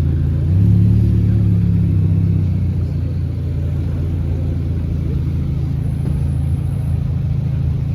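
Car engine running with a deep, steady note; the revs rise briefly about half a second in and settle back down a couple of seconds later.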